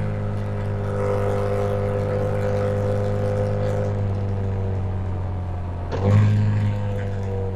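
Yamaha MT-07's parallel-twin engine running steadily, then slowly dropping in revs. About six seconds in, the engine note jumps up abruptly with a louder burst, then eases down again.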